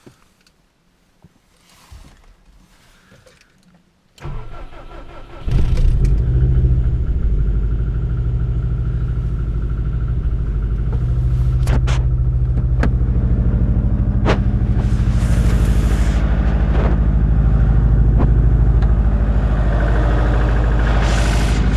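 Cold start of a 2002 Subaru Impreza WRX's 2.0-litre turbocharged flat-four. The starter cranks about four seconds in, the engine catches about a second later and runs on at a steady fast cold idle, with the cold-engine knock the owner takes for piston slap.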